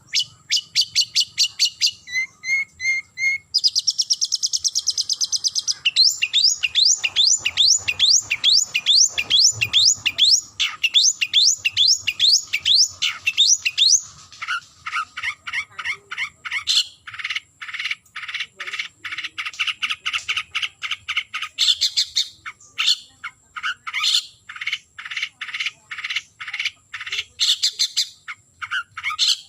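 Long-tailed shrike (cendet) calling to challenge a rival, in fast runs of sharp repeated notes. A short buzzy trill comes a few seconds in, then a quick series of down-slurred notes, and the calls become slower and more spaced through the second half.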